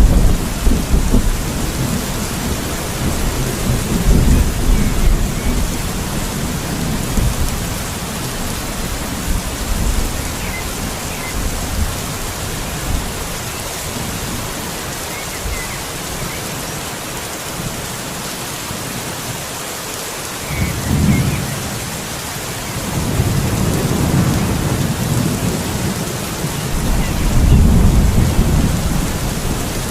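Steady rain with thunder rumbling several times: a rumble at the very start, another about four seconds in, then a long rolling rumble through the last third.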